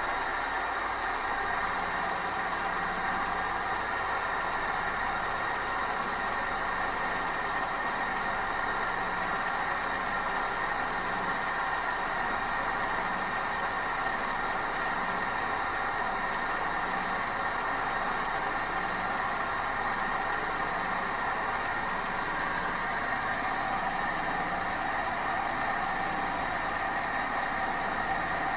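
Experimental 14cc pressurised twin-cylinder gamma Stirling engine running steadily under its gas flame, a constant mechanical whirr with an even hiss and a faint low pulsing beat.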